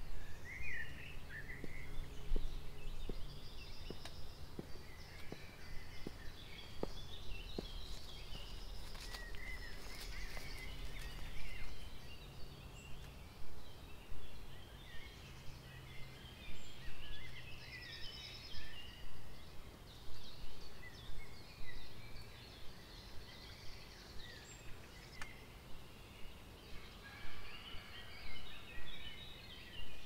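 Several wild birds singing and calling, in many short chirps and phrases, with a faint low hum under them during the first half.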